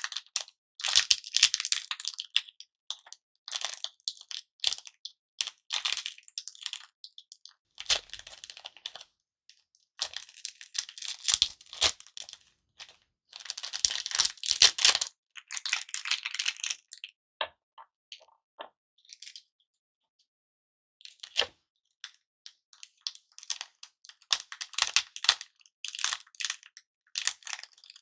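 Wrapped hard-candy lollipops being handled, in irregular bursts of crisp crinkling and crackling with short pauses between them and a gap of silence about two-thirds of the way through.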